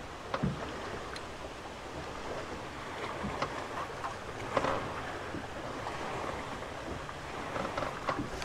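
Strong wind buffeting the microphone and choppy lake water slapping against a fishing boat's hull: a steady rush with a few short knocks.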